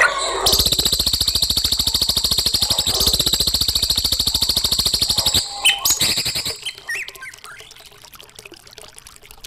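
Songbird masteran (song-tutoring recording for cage birds): a fast, buzzing high trill held for about five seconds, then a few separate chirps before it goes quieter.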